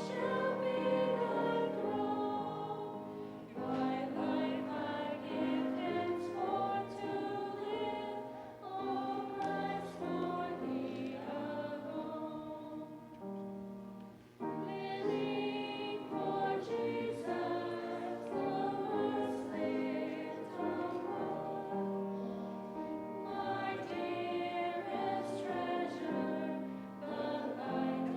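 Group of voices singing a song over held low accompaniment notes, with a brief pause between phrases about halfway through.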